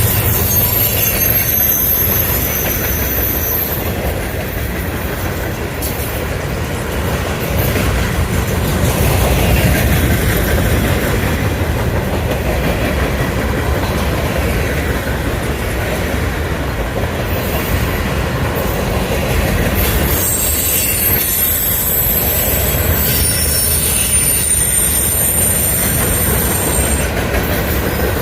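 Freight train rolling past, steel wheels rumbling and clacking over the rail joints. Thin high-pitched wheel squeal comes and goes near the start and again for several seconds near the end.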